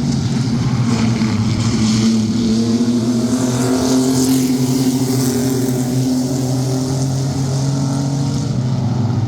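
Several stock race trucks' engines running hard together at racing speed, giving a steady, loud drone that rises and falls a little in pitch.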